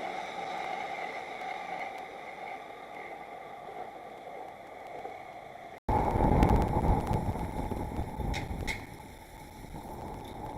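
Steady outdoor background noise. About six seconds in it cuts off abruptly and comes back louder, with a deep rumble and a rushing noise, and two short high squeaks near the eight-second mark.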